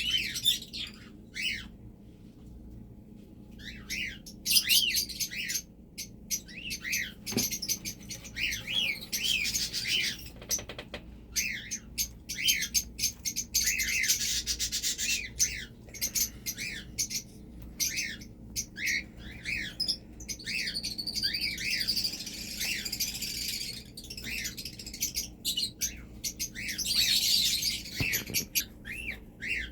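Small birds chirping and twittering in quick, repeated calls, with a faint steady low hum underneath.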